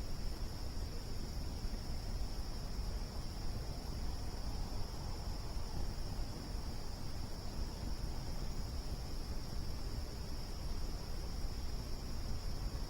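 Campfire burning with a low, flickering noise, under a steady high-pitched chorus of crickets.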